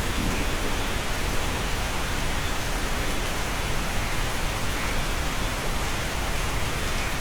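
Steady rain pouring on a cabin, an even dense hiss with no single drops standing out.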